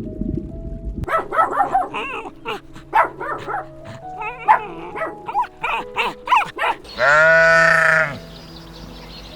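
Sheep bleating: many short overlapping calls from the flock, then one loud, long bleat about seven seconds in.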